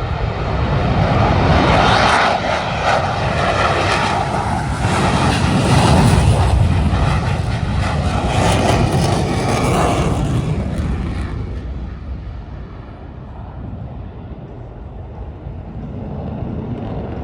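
An airplane's engine running loud as the plane passes, the noise dropping away after about eleven seconds as it moves off.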